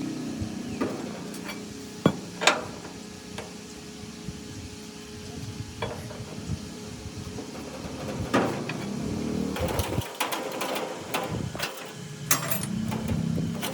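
Hand work on metal parts: scattered clicks and knocks, with two sharp knocks about two seconds in and a busier run of rapid clicks and rattles from about ten seconds on.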